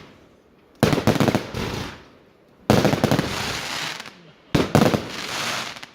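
Fireworks going off in three loud bursts about two seconds apart, each a sudden bang followed by about a second of crackling before it dies away.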